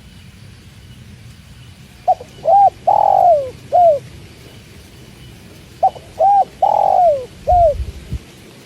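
Spotted dove (tekukur) cooing: two identical phrases a few seconds apart, each a short rhythmic run of notes with one longer note that falls in pitch. Under it runs a low steady background noise, with a brief low rumble near the end.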